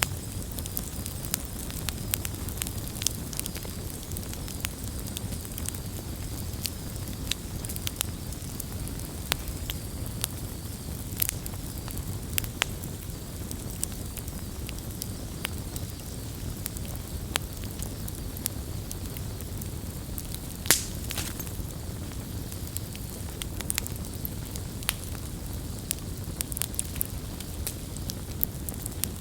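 Campfire burning with a steady low rumble and frequent sharp crackles, with one louder pop about two-thirds of the way through.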